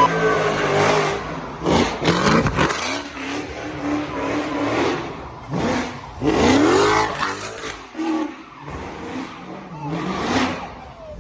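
Car engine revving hard in repeated surges during a burnout, its pitch climbing and falling, with tire squeal and voices mixed in.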